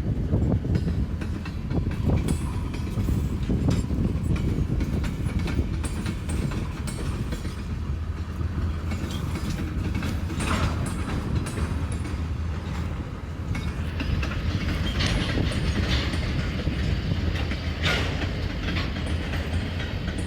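Freight train cars rolling past at close range: a steady low rumble with repeated wheel clicks and clacks over the rail joints.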